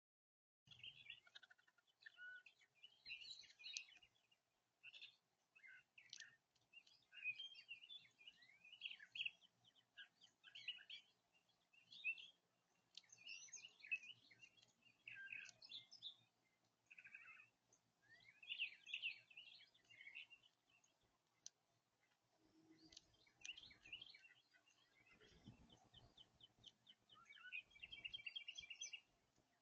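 Small birds chirping and calling, a steady stream of short, varied high notes, with a quick run of repeated notes near the end.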